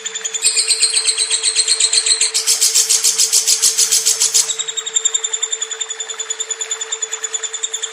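Lovebird's long-duration chattering trill ('ngekek'), a fast, even run of high pulses at about eight to ten a second, louder from about half a second in until about four and a half seconds. A steady low hum runs underneath.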